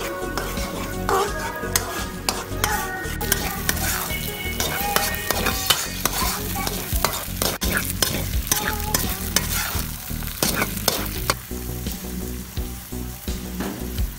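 Metal spatula stirring and scraping a thick mixture frying in ghee in a metal pot, with a steady sizzle and repeated scrapes against the pot.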